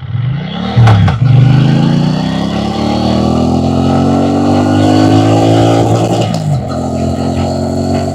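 Triumph Bonneville T120's parallel-twin engine and exhaust under way. A quick blip of revs and a sharp loud crack about a second in, then the engine note climbs steadily under acceleration for about five seconds. The revs drop sharply near six seconds in and then hold steady.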